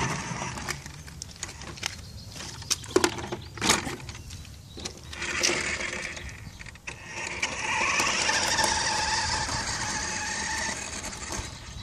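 Toy monster truck's electric motor and gearbox whirring in short runs, with a few clicks and knocks around three seconds in, then a longer steady whir in the second half.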